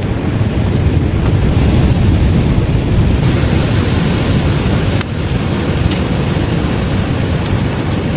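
Ocean surf washing in, a loud steady rush with wind buffeting the microphone; the sound drops in level abruptly about five seconds in.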